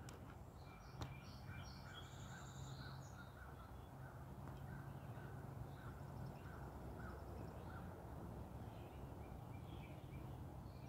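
Faint outdoor ambience: birds calling with short, scattered chirps over a low, steady hum.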